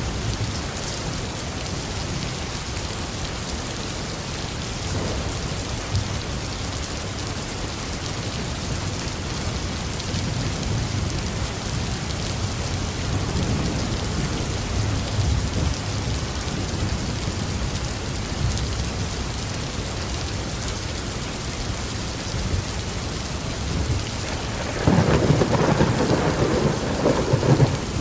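Heavy rain falling steadily on a roof, with thunder: low rumbles swelling in the middle and a louder, crackling thunderclap about 25 seconds in that lasts a couple of seconds.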